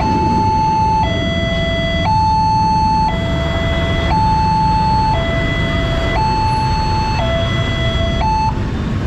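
Railway level-crossing electronic alarm sounding a two-tone hi-lo pattern, switching between a higher and a lower tone about once a second, and stopping about eight and a half seconds in. A steady low traffic rumble runs underneath.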